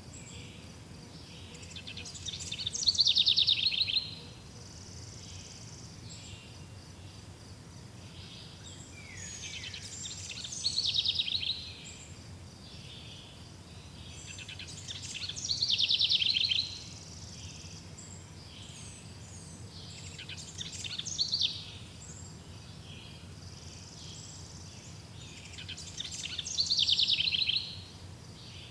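A songbird repeating the same song phrase five times, each about two seconds long and ending in a fast trill, with pauses of a few seconds between. Under it runs a steady high insect buzz.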